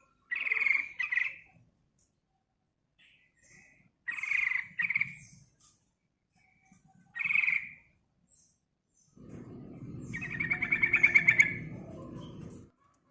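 Yellow-vented bulbul singing: three short bubbly phrases a few seconds apart, then a longer, louder phrase of fast chattering notes in the last few seconds, with a low rumble under it.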